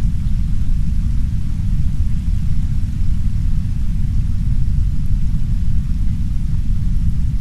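Steady, heavy brown noise: a deep, even rumble with no breaks, overlaid by a much fainter hiss of soft rain.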